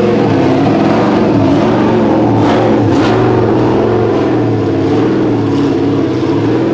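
Drift car's engine revving hard, its pitch rising and falling again and again as the throttle is worked through the run.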